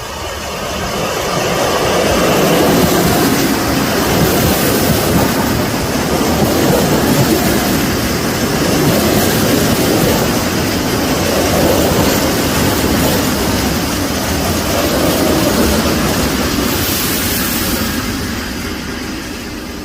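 ED4M electric multiple unit train running past, wheels on the rails making a loud, steady rumble that builds over the first couple of seconds and eases off near the end.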